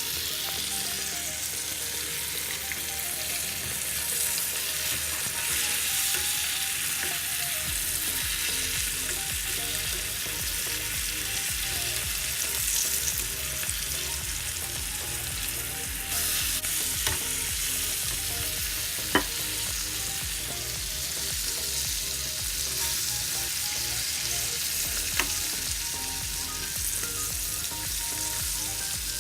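Breaded chicken pieces deep-frying in hot sunflower oil: a steady sizzling crackle, with a few sharp clicks, the loudest about two-thirds through.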